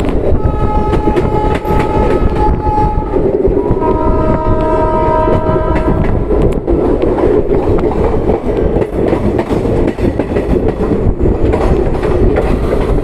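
Train running with a steady rumble and rhythmic clickety-clack of wheels over the rail joints. Its horn sounds twice in long blasts during the first half.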